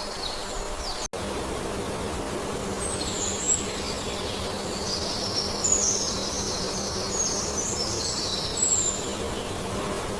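Several bird chirps and short trills over a steady background rush of forest ambience, with a brief cut in the sound about a second in.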